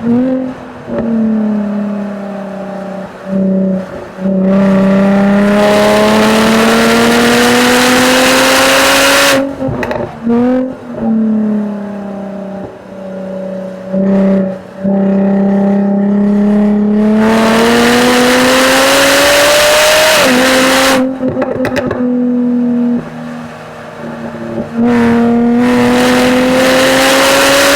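2013 Jaguar F-Type V6 S's supercharged 3.0-litre V6 exhaust under hard driving on a race track: the note climbs slowly through long pulls, broken several times by sudden drops and short quieter gaps as the throttle is lifted and gears change.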